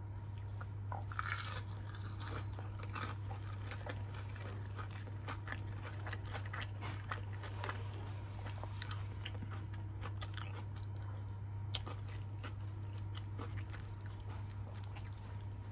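Close-up crunching and chewing of food: irregular crackly bites throughout, over a steady low hum.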